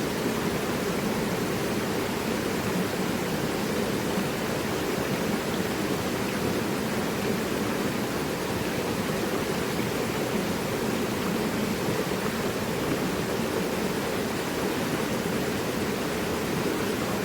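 Mountain river rushing over rocks: a steady, even roar of flowing water with no change throughout.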